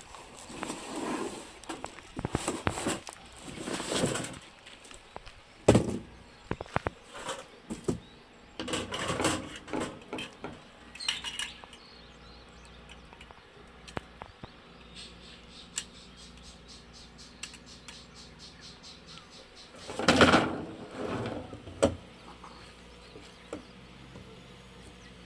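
Metal parts of a UNIFLAME Fire Grill Large (stainless-steel fire bowl and chrome-plated steel stand and grate) clinking, knocking and scraping as the grill is assembled. The sounds come in irregular handling bursts, with one quick run of light ticks partway through.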